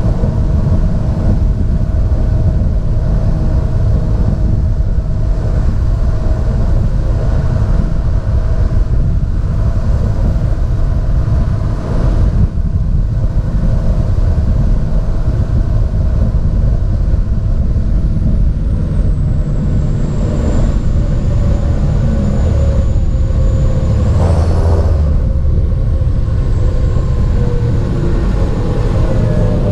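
John Deere 7430 Premium tractor's six-cylinder diesel engine running steadily, with a faint high whine above it that rises sharply and falls back about three-quarters of the way through.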